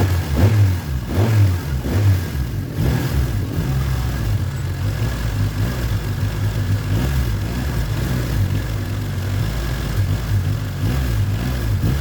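Honda Civic Genio's engine running through its exhaust: blipped a few times in the first three seconds, then settling to a steady idle.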